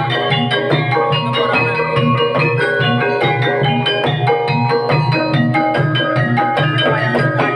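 Banyumasan gamelan music for an ebeg dance: struck keyed instruments play a quick, dense run of pitched notes over steady drumming.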